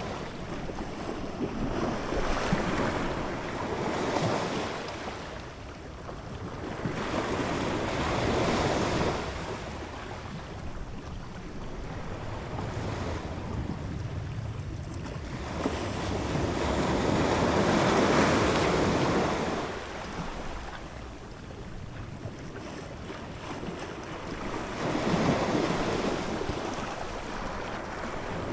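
Ocean waves breaking and washing onto shore, the surf swelling and falling back in slow surges about every seven seconds.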